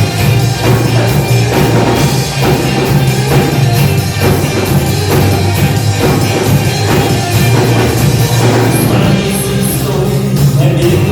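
Live band playing music loudly, with a strong, steady bass line under the full band.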